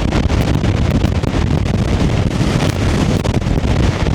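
Strong gusting wind buffeting the camera microphone: a loud, constant low rumble with hiss above it.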